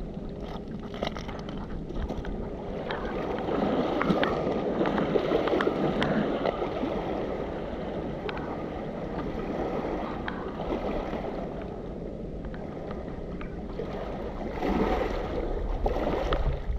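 Small waves washing and lapping on the foreshore, swelling and easing, with wind on the microphone and scattered sharp clicks, like stones knocking.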